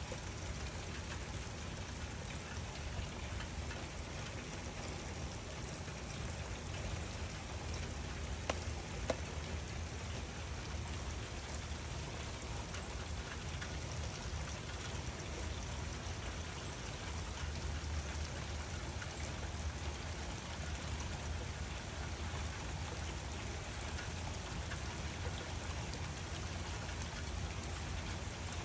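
Steady rain falling: an even hiss of drops, with a couple of sharper single drip ticks about eight and nine seconds in.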